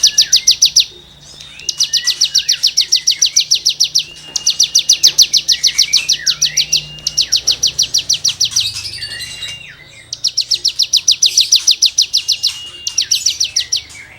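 Cigun songbird singing rapid, buzzy 'gesekan' trills: bursts of about two seconds at around twelve notes a second, five of them, separated by short slurred whistles.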